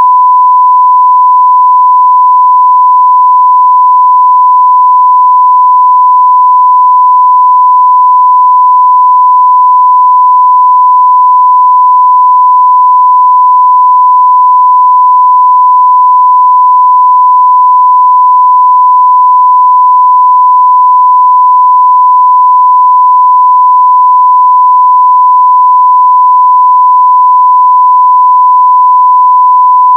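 A 1 kHz sine-wave test tone at 0 dB, a single pure steady tone held unchanged at near full-scale level.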